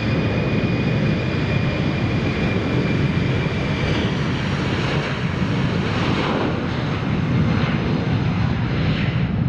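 Embraer 190 jet airliner's turbofan engines running loud, with a steady whine that fades out about three and a half seconds in, over wind rumble on the microphone.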